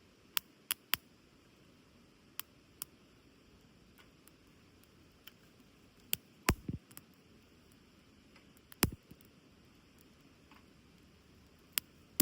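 Small wood fire crackling: scattered sharp pops and snaps from burning wood, a few closely spaced near the start, with two heavier knocks about six and a half and nine seconds in.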